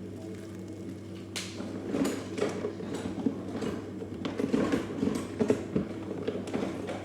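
Irregular clicks, rattles and creaks of things being handled, starting about a second in and stopping just before the end, over a steady low hum.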